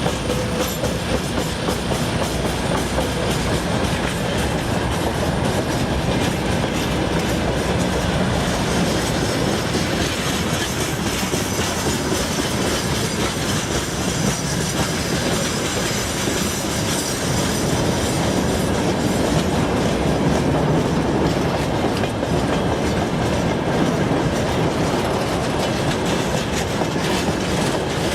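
Freight train rolling past, its wagon wheels clattering steadily over the rail joints.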